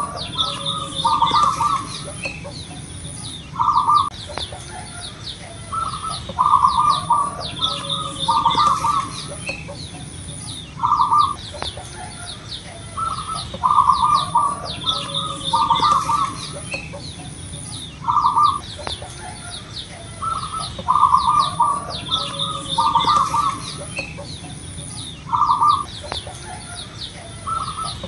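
Zebra doves cooing: short clustered phrases of a few notes, repeated every two seconds or so, with faster, higher chirps of small birds and a thin high pulsing whine behind.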